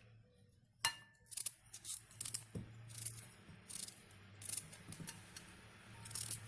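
Knife cutting raw red beetroot into small pieces: a sharp clink about a second in, then a run of short, crisp cutting sounds at an uneven pace.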